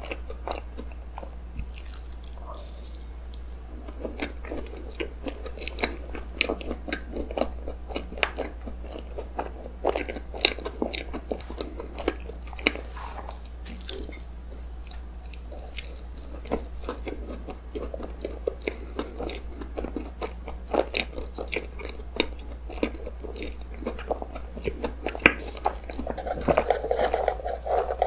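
Close-miked mouth sounds of a person biting and chewing soft, cream-filled roll cake: many small, irregular wet clicks and smacks. Near the end comes a steadier sound of sipping an iced drink through a straw.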